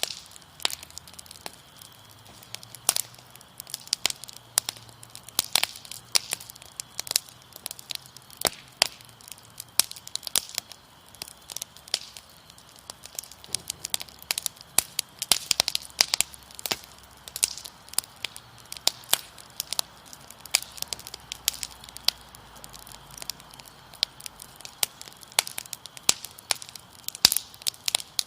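Wood fire crackling, with frequent irregular snaps and pops. A faint steady chirping of crickets runs underneath.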